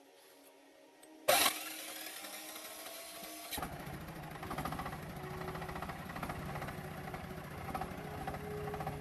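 An engine starting: a sudden loud noise about a second in, with a low, steady running rumble joining a couple of seconds later that cuts off suddenly near the end.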